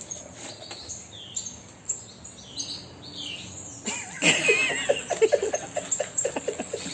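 Lory parrot calling with short, high, falling chirps. About four seconds in, a louder run of quick rhythmic chattering starts, like laughter.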